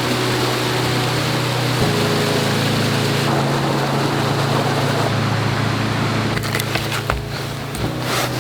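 Strong wind blowing steadily through a cold mountain campsite, a loud, even rush. From about six and a half seconds in, a few sharp clicks and knocks come through it.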